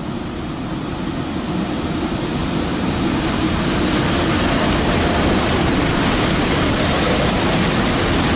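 A train passing close by on the next track: a steady, loud rumble and rush of wheels and wagons, growing a little louder over the first few seconds.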